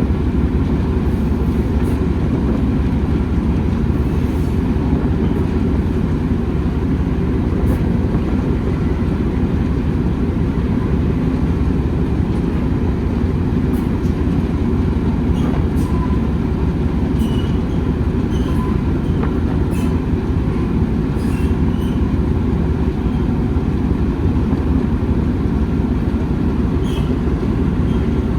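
Railway train running on the track: a steady, loud low rumble, with faint short squeaks and clicks now and then through the middle.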